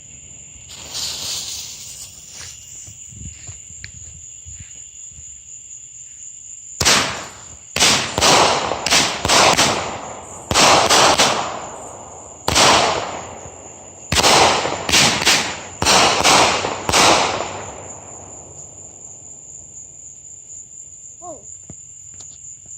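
A 200-gram, 9-shot firework cake firing: a rapid run of sharp bangs over about ten seconds, each fading quickly, starting some seven seconds in after its fuse has been lit. Crickets chirp steadily throughout.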